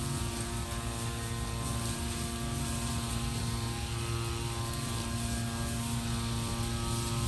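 A steady mechanical drone with a constant hum, unchanging throughout; no bird calls stand out.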